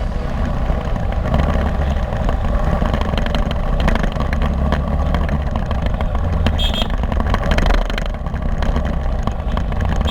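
Motorbike engine and busy city road traffic heard while riding: a steady low rumble of engines and road noise, with a brief high tone about two-thirds of the way through.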